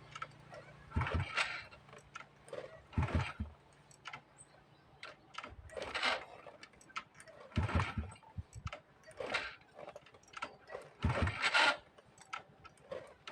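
Honda motorcycle being kick-started again and again: a short clattering thump from the kick lever and engine about every one and a half to two seconds, about seven times, without the engine catching and running.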